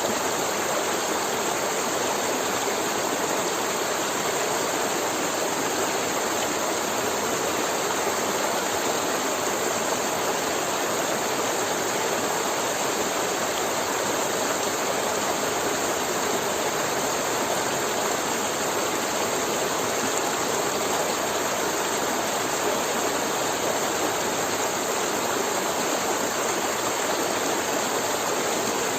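River water flowing steadily, an even rushing sound without breaks.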